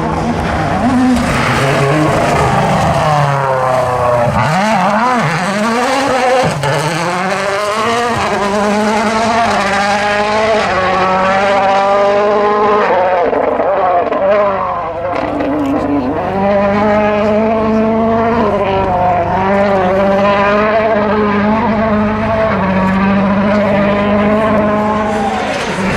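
A 2017 World Rally Car's turbocharged 1.6-litre four-cylinder engine at full attack on a rally stage. The pitch rises and falls again and again through gear changes and lifts, with a short dip in level a little over halfway through.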